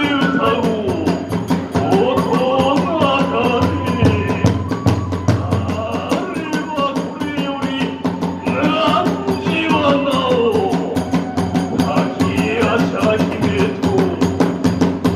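Kagura festival music: drums and hand cymbals keeping a fast, busy beat under a wavering melody line.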